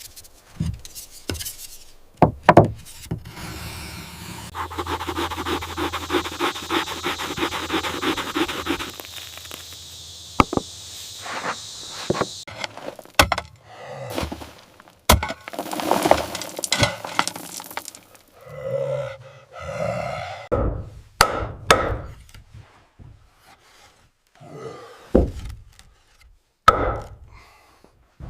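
Wood being worked by hand: a few seconds of rapid, even scraping strokes early on, then scattered sharp knocks and short scrapes of wood with pauses between them.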